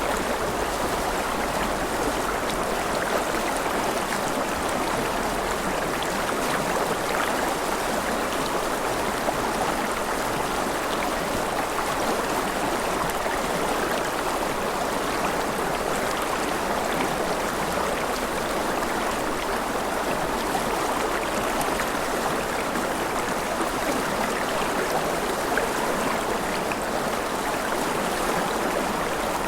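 Steady gentle rain: an even, unbroken hiss of falling water with faint scattered drop ticks.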